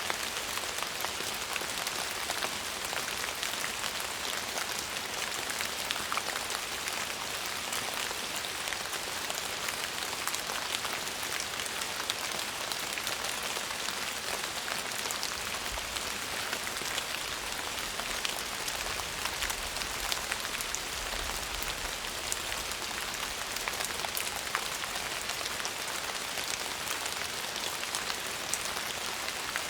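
Steady rain falling, a dense even hiss of many small drops pattering on a surface. A faint low rumble is heard about sixteen to twenty-two seconds in.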